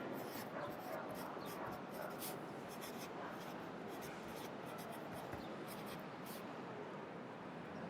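Pencil writing on paper: quick, scratchy strokes in irregular bursts, thinning out near the end. Under them runs a steady hum of city traffic ambience.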